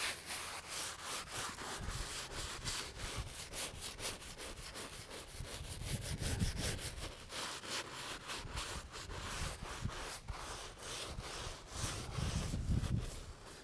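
Soft-bristled brush scrubbing the polished face of a pre-treated headstone in quick, even back-and-forth strokes. Low gusts of wind rumble on the microphone twice, midway and near the end.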